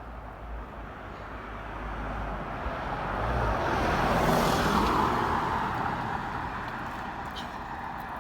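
A car passing by: its road noise swells to a peak about four seconds in, then fades away.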